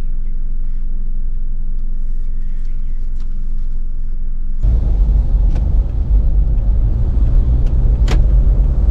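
Car engine and road rumble heard from inside the cabin. The steady hum turns suddenly into a louder, rougher rumble about halfway through, as the car speeds up or the road surface changes.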